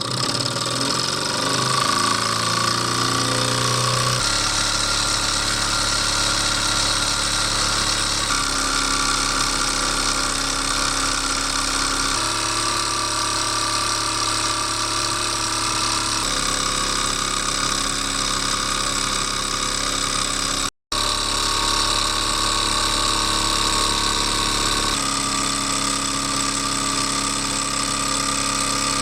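Small homemade alpha-type Stirling hot-air engines running with a steady mechanical whir; over the first few seconds the pitch climbs as the engine speeds up. The tone changes abruptly every four seconds or so, as one engine gives way to another, and the sound cuts out for an instant about three-quarters through.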